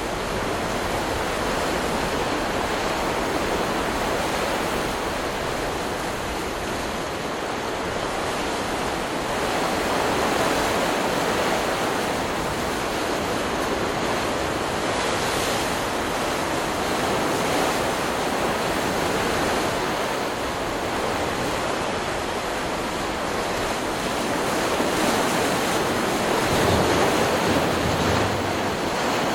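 Ocean surf: waves breaking and washing ashore in a continuous rush that swells and eases, a little louder near the end.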